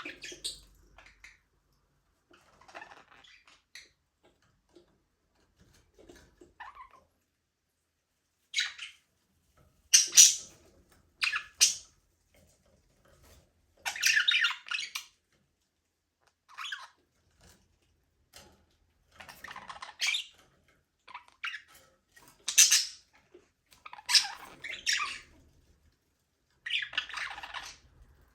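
Budgerigars chirping in scattered bursts of high-pitched calls, with short quiet gaps between them.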